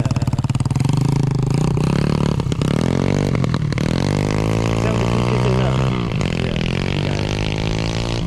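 Small single-cylinder mini dirt bike engine (TrailMaster 125) running, its revs climbing and falling: the pitch rises steadily for about three seconds, then drops sharply a little before the end.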